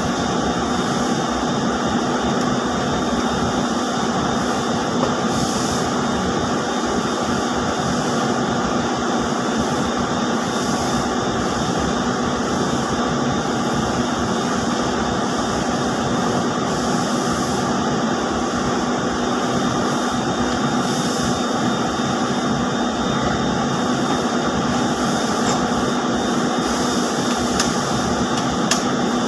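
Loud, steady mechanical din of running Marzoli ring-spinning frames in a textile mill, a dense whirring haze with a constant hum.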